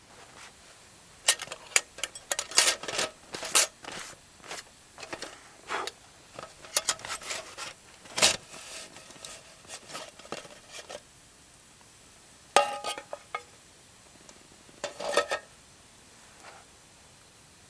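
Metal camp cookware and utensils clinking and clattering as they are handled. The sounds come as irregular clusters of sharp knocks, a few of them ringing briefly, with the busiest stretch in the first half and two short bursts later.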